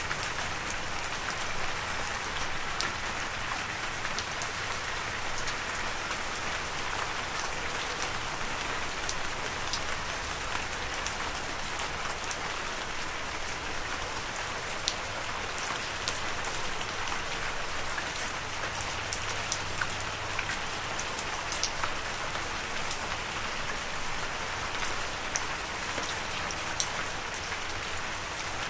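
Steady rain: an even hiss of falling rain with many scattered individual drops ticking through it.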